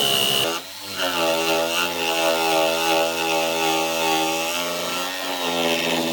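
An electric power tool motor running with a steady, high whine. It cuts out briefly about half a second in, dips again a little after five seconds, then picks up again.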